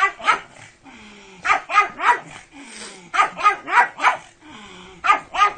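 Pug barking excitedly: sharp, high barks in quick bursts of two to four, about eleven in all.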